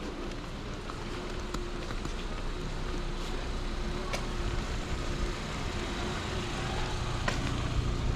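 Steady hiss of rain on a wet street with the low rumble of a vehicle that grows louder near the end, and a few sharp ticks.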